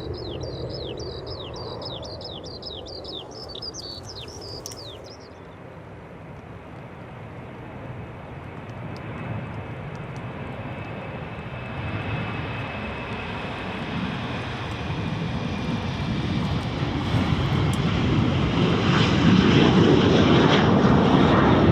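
Airliner engines growing steadily louder as an aircraft approaches on the runway, with a faint high whine above the rush. For the first few seconds a bird chirps rapidly, in quick falling notes.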